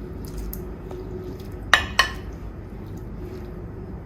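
Two sharp clinks about a quarter of a second apart, a little under two seconds in, of a utensil or hand knocking against a bowl while grated potato is rinsed in cold water, each ringing briefly.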